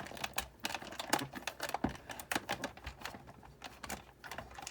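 Irregular clicks and light knocks of Sizzix Big Shot die-cutting machine parts being handled and fitted together during reassembly, with a short lull about three seconds in.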